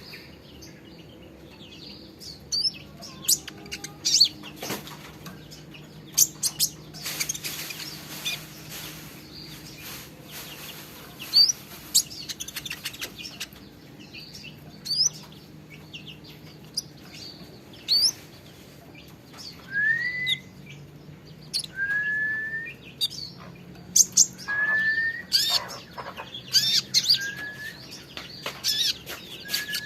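Small songbird (konin) chirping and calling steadily, with sharp high chirps and clicks. About two-thirds of the way in it switches to short upslurred whistles repeated every couple of seconds.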